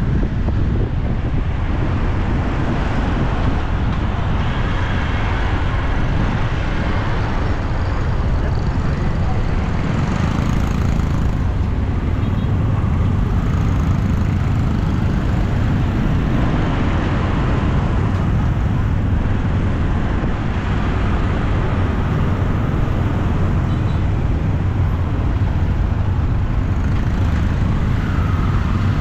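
Steady road traffic noise, a continuous rumble of passing vehicles, with no single event standing out.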